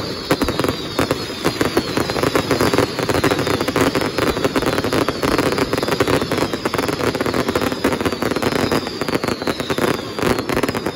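Pirotecnia Turis castillo fireworks firing a dense barrage: rapid bangs and crackling over a steady rush. Many overlapping whistles fall slightly in pitch.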